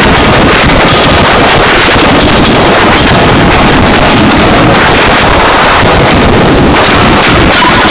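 Harsh noise music: a dense wall of distorted noise spread across every pitch, held steady at full loudness without a break.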